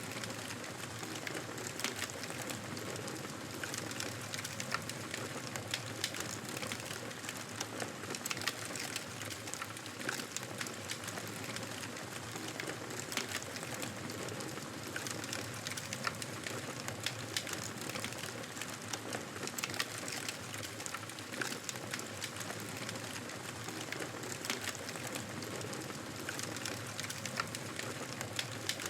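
Wood fire crackling in a fireplace: a steady hiss dotted with frequent small sharp pops and snaps.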